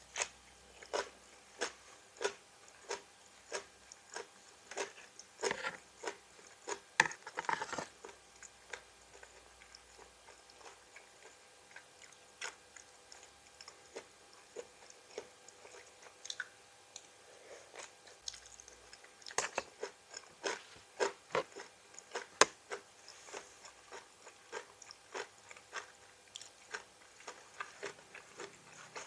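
Close-up crisp crunching and chewing of fresh raw vegetables, eaten with a seafood papaya salad. It comes as a run of sharp bites about one to two a second, with two busier spells of crunching.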